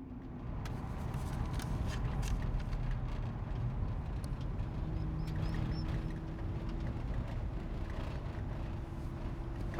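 Car engine running as the car drives, with scattered clicks. A faint steady tone comes in about five seconds in.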